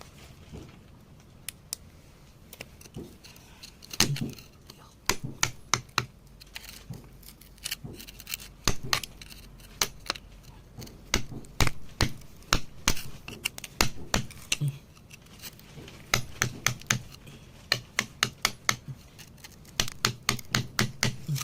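Hand tools tapping and picking at stone to free a mineral specimen: many sharp, irregular clicks, sparse at first and coming thick and fast from about four seconds in.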